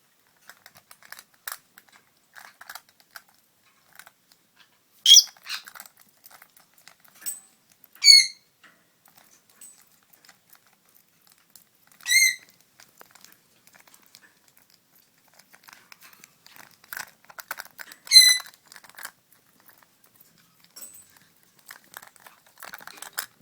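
Peach-faced lovebird giving four short, sharp, high-pitched calls spread through the stretch, with scattered light clicks and rustles in between.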